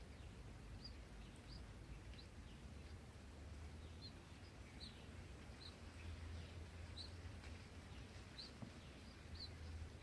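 Faint, short, high-pitched chirps about once a second over a low steady hum: begging calls of red-whiskered bulbul nestlings in the nest.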